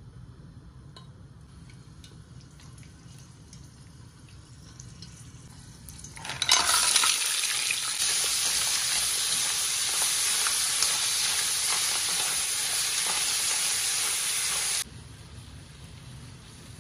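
Mussels sizzling in hot olive oil in an aluminium pan. A quiet low hum with faint ticks gives way about six seconds in to a sudden loud sizzle, which cuts off abruptly about two seconds before the end, leaving a quieter hiss.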